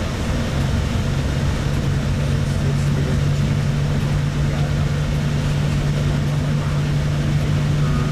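Steady engine drone of a tour vehicle, heard from inside while it travels, with a constant low hum and rumble.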